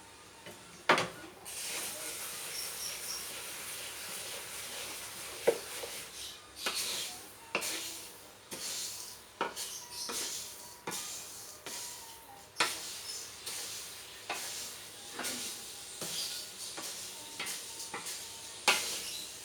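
A dry seed mix of unhulled rice, corn, millet and canary seed being stirred in a pan as it roasts without oil. The seeds rustle steadily, with irregular sharp knocks and scrapes of the stirring utensil against the pan.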